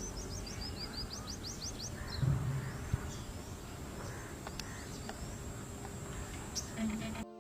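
Small birds chirping: a quick run of high, repeated chirps over the first two seconds, then a few scattered calls against a low outdoor background.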